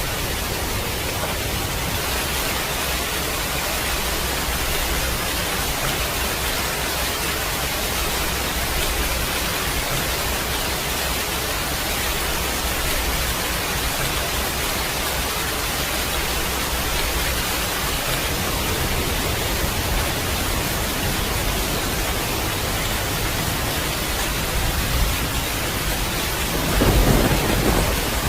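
Steady rain hissing, with thunder rumbling low under it. A louder thunderclap rolls in near the end.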